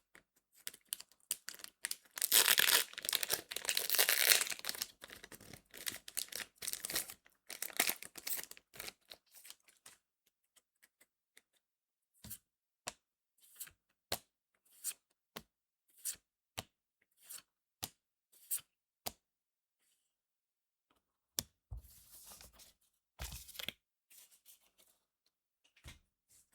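Trading-card booster pack being torn open, a loud crinkling, tearing rush of foil wrapper. This is followed by a run of short, sharp card clicks, roughly one every 0.7 s, as the cards are handled one at a time. Near the end there is another brief rustle of wrapper.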